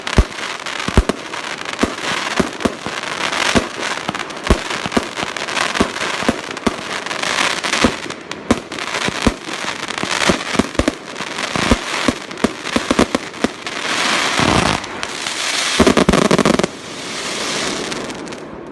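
144-shot firework cake (battery) firing, a rapid run of bangs over dense crackle from the bursting effects. Near the end comes a louder burst of crackling, which stops abruptly and leaves the crackle dying away.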